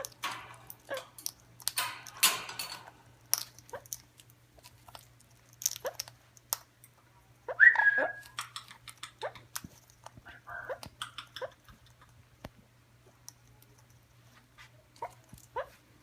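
Pet bird giving one loud, short squawk about halfway through, among scattered light clicks and taps.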